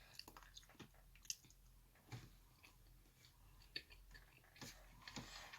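Faint chewing of food, with scattered soft crunches and mouth clicks.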